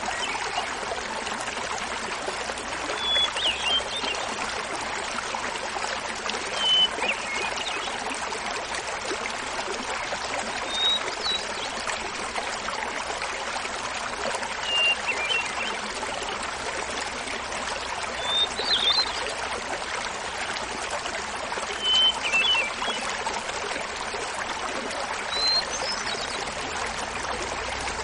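Small mountain waterfall splashing steadily, with a hermit thrush singing short, flute-like songs about every four seconds, seven in all, each pitched a little higher or lower than the last.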